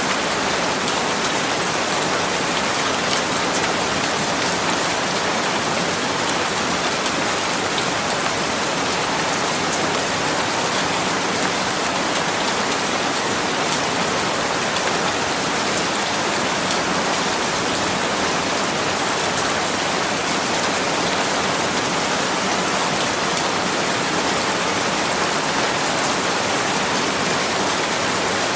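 Steady rain falling, a dense even hiss with many fine drop ticks and no pauses.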